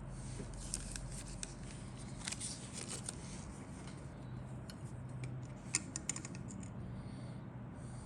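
Scratchy rustling and light sharp clicks from a plastic model kit's parts and packaging being handled, over a steady low hum.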